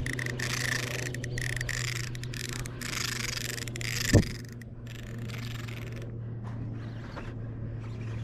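Baitcasting reel being worked against a hooked fish: a scraping, hissing run of line and drag that cuts off about halfway through, with one sharp thump just before it stops, over a steady low hum.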